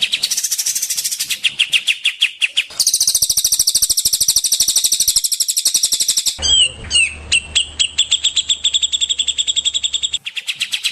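Songbirds singing fast, high-pitched repeated trills in several back-to-back segments that change abruptly about three seconds in, about six seconds in and again near the end. A low hum sits under the segment from about six seconds in until shortly before the end.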